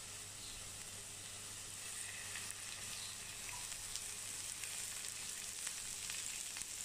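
Chopped onion, garlic and green chilies sizzling in olive oil in a frying pan as a tempering (bagar) is fried: a steady hiss with small pops and crackles that grow busier after about two seconds.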